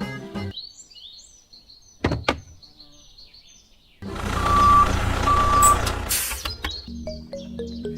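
Birds chirping, with two sharp knocks. Then a truck engine starts running loudly, with two short horn beeps.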